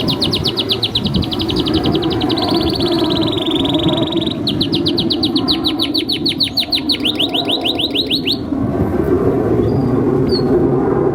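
Domestic canary singing fast trills, rapid runs of repeated high notes one after another, breaking off about eight and a half seconds in. A steady low noise runs underneath.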